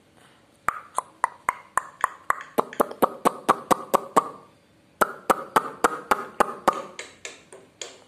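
Caged bird making a rapid run of sharp, ringing clicking notes, about three to four a second. There are two runs with a short gap about four seconds in, and the notes fade near the end.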